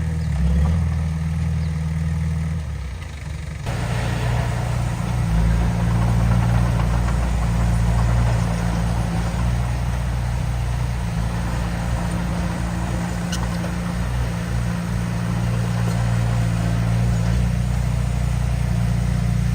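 Heavy earthmoving machine's diesel engine running steadily at a low pitch. The sound changes abruptly about four seconds in, becoming fuller and noisier.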